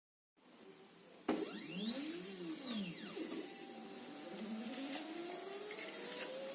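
CNC cutting machine's stepper motors whining as the head moves. A click about a second in, then tones that rise and fall in pitch as the moves speed up and slow down, and near the end a slow rise in pitch.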